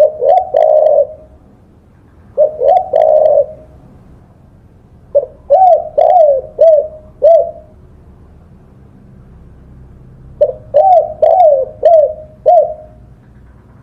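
Spotted dove (tekukur) cooing: four phrases, the first two short and the last two longer runs of four or five notes, each note rising and falling in pitch.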